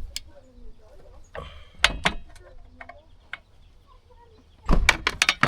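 Scattered clicks and knocks of chainsaw parts and hardware being handled during a handle install, ending in a quick cluster of sharp, loud clicks near the end.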